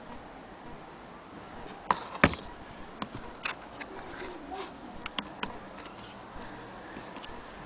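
Scattered sharp clicks and light knocks of an antique Willcox & Gibbs sewing machine being handled, the loudest just over two seconds in and a quick cluster about five seconds in.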